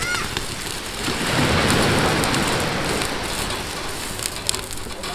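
Pork belly sizzling on a fire pit's grill plate over a wood fire, with scattered crackles; the sizzle swells louder about a second in and eases off after about three seconds.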